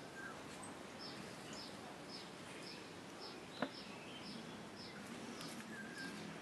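A bird, faint over background hiss, repeats a short, high, falling chirp about twice a second. A single sharp click comes about three and a half seconds in.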